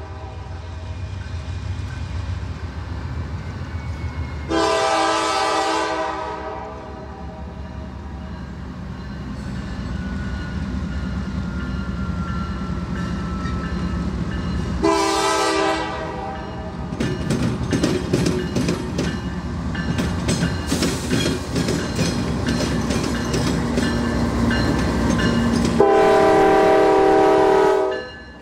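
Norfolk Southern freight train led by GE Dash 9-40CW diesel locomotives approaching and passing, engines running low underneath. The horn sounds three times: a long blast about five seconds in, a short one about fifteen seconds in, and a long one near the end. From about seventeen seconds on, the wheels click rapidly over the rail joints and the diamond crossing.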